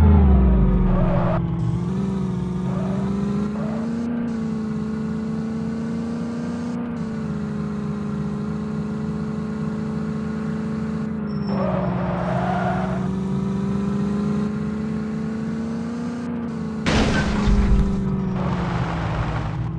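Tractor engine running steadily, its pitch rising and falling slightly as the revs change. Short rushing noises come over it a couple of times, the loudest about seventeen seconds in.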